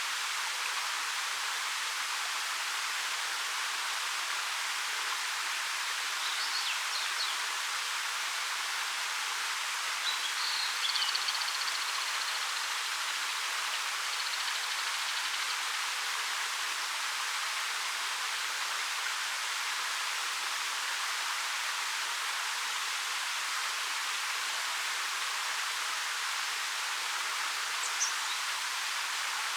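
Steady hiss of a 13 m waterfall pouring over rock. A few brief bird chirps come through faintly, about six and ten seconds in and again near the end.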